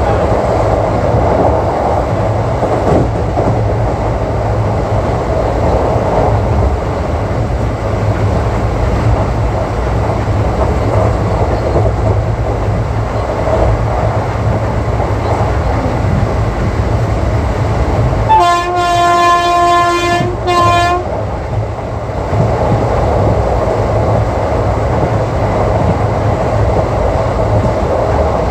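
ICF passenger coach running at speed, with a steady rumble and rattle of wheels on the track. About eighteen seconds in, the WAP-4 electric locomotive's horn sounds one long blast followed at once by a short one.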